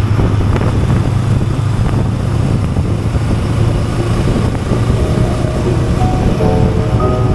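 Honda Rebel 500's parallel-twin engine running at a steady cruise, a low drone under rushing wind noise. Background music with short held notes comes in from about halfway through.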